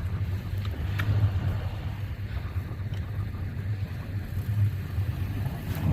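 Truck engine running steadily, a low even hum with faint clicks about a second in.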